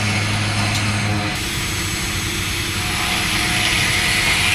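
Heavy industrial machinery running: a steady low hum that cuts off about a second and a half in, giving way to a steady hissing machine noise.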